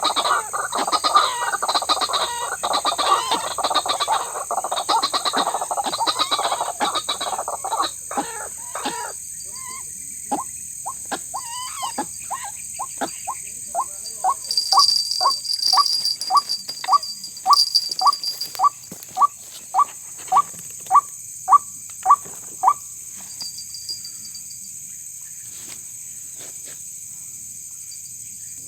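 White-breasted waterhen calls: a dense tangle of harsh overlapping croaks for the first nine seconds or so, then a run of single repeated notes, about two a second, growing louder before stopping a few seconds before the end. A steady high insect hum runs underneath.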